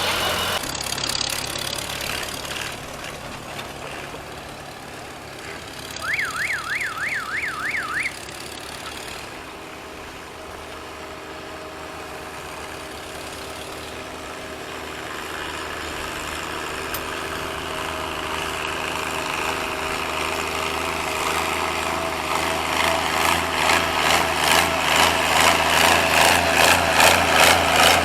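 Tractor engine running, growing louder in the second half with a rhythmic pulsing near the end. About six seconds in, a warbling siren-like tone sweeps up and down for about two seconds.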